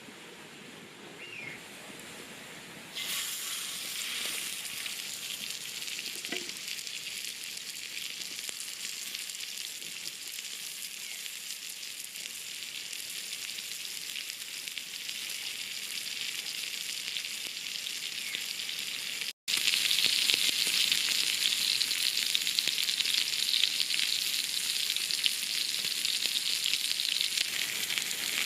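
Food frying in a hot pan: a sizzle starts suddenly about three seconds in and runs on steadily, drops out for an instant about two-thirds of the way through, and comes back louder.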